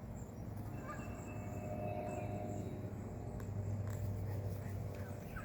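A few faint, short bird calls from a gathering of birds in a tree, over a steady low rumble.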